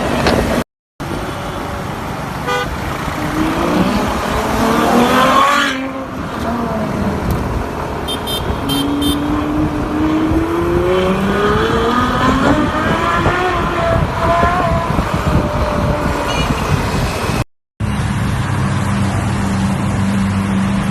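Supercar engines revving and accelerating, their pitch rising in several sweeps, in short clips joined by brief silent cuts. A steady engine note runs near the end.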